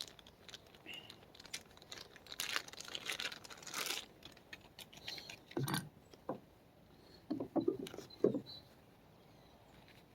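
Intermittent rustling, scraping and light clicks and knocks of small metal parts being handled, with a short hissy rustle about two and a half seconds in and a few separate knocks later on.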